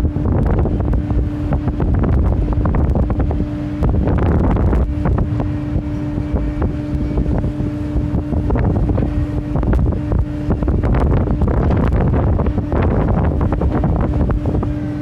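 Wind buffeting the microphone hard, over a steady low mechanical hum that drops out twice for about a second.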